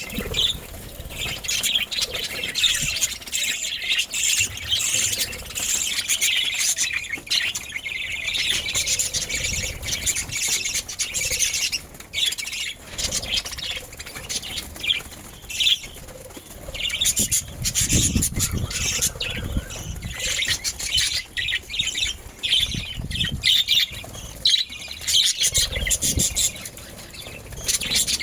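Budgerigars chattering nonstop in rapid, irregular chirps and squawks, with a few low thumps scattered through.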